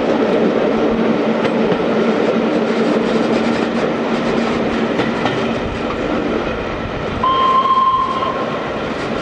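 Passenger train coaches running along the line, heard from an open carriage window: a steady rumble of wheels on the rails with clicking over joints and points. Near the end a high steady tone sounds for about a second.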